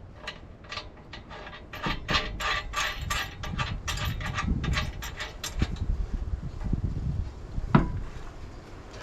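Ratchet wrench clicking in quick runs as a hitch mounting bolt is run down tight, with one sharp metallic knock near the end.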